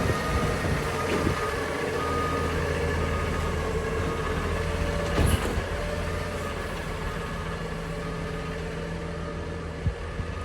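Garbage truck engine running steadily, with one short bang about five seconds in.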